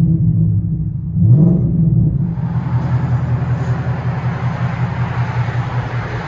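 2015 Ford Mustang GT's 5.0 L V8 through an X-pipe and straight pipes, with the mufflers deleted. It idles with a deep rumble and is revved once, briefly, about a second in. From about two seconds in it runs steadily under a broad hiss.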